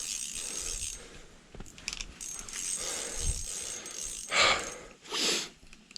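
Spinning reel on a light ice-fishing rod clicking and ratcheting as a big brown trout is played at the hole, with two louder bursts of noise near the end.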